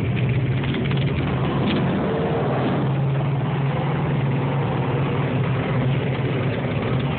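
A car engine running steadily at an even, low pitch.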